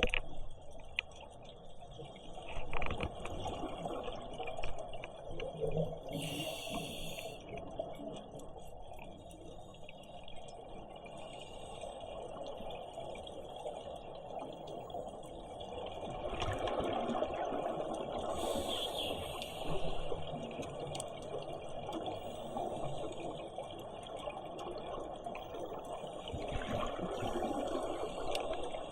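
Underwater scuba breathing through a regulator. There are slow rushes of exhaled bubbles, and a brief hiss comes twice, about twelve seconds apart, over steady watery noise.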